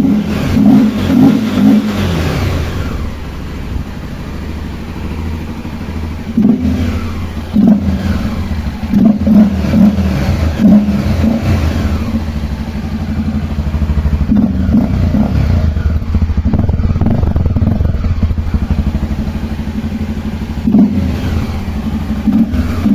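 Honda XRE single-cylinder motorcycle engine running with its air filter removed, idling and blipped in short revs several times, each rising and falling back to idle.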